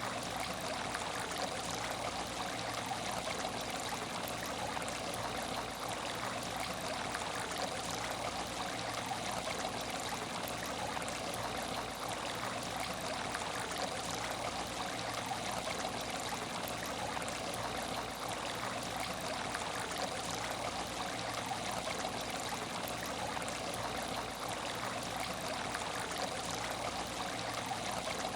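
Water trickling and splashing steadily in an aquarium tank, an even, unbroken flow with no change in level.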